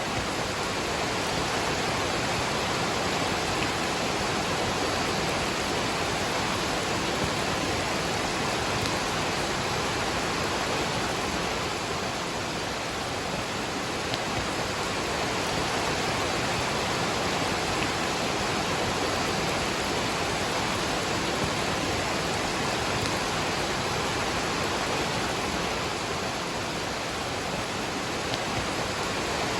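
Waterfall and rain: a steady rush of falling water.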